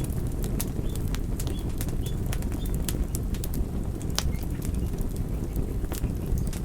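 Wood fire crackling: frequent irregular sharp pops and snaps over a steady low rumbling noise.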